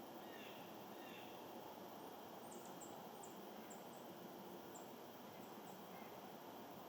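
Faint, high-pitched bird chirps over a steady background hiss: a couple of calls at the start, then a run of about a dozen short, very high chirps in the middle.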